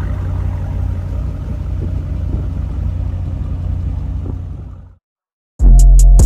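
Car engine running with a steady low rumble, fading out about five seconds in. After a brief silence, loud hip hop music starts near the end.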